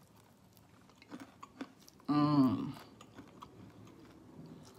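A person chewing food with a few small wet mouth clicks, and a short hummed "mmm" with falling pitch about two seconds in, the loudest sound here.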